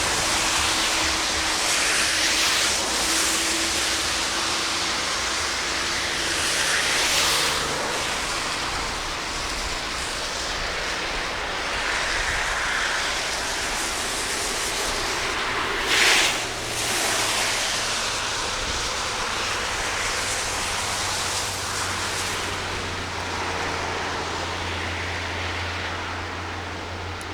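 Heavy rain and rushing floodwater: a steady noise that swells and eases every few seconds, with one brief louder burst about sixteen seconds in.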